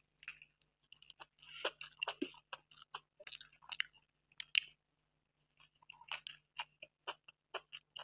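Biting into and chewing a samosa close to the microphone: a run of quick wet mouth clicks and crackles. It stops for about a second past the middle, then starts again.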